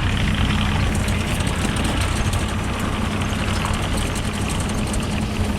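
Engine of a compact earthmoving machine running steadily at a constant speed, with an even low hum.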